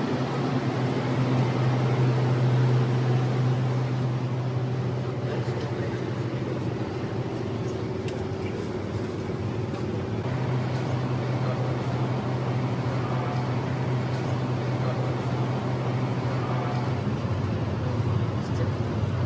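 Enoshima Electric Railway (Enoden) train heard from inside the car: a steady low hum of the running train over a noise haze. The hum eases about seven seconds in and returns about three seconds later.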